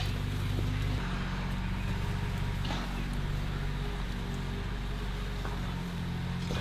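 Engine of a piece of landscaping machinery running steadily, its note shifting about a second in and again near the three-second mark.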